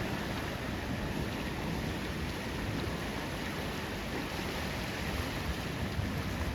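Ocean surf breaking on a rocky beach, a steady wash of noise with no single wave standing out.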